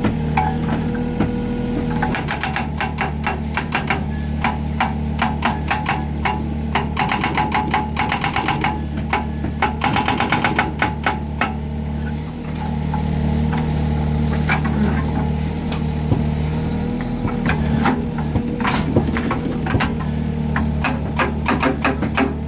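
Mini excavator engine running steadily while its hydraulic breaker hammers concrete in rapid strokes, continuously for several seconds, then pausing and coming back in shorter bursts near the end.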